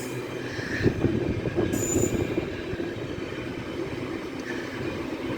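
Train running through the station, a steady rumble of wheels on rails, with a brief high-pitched squeal about two seconds in.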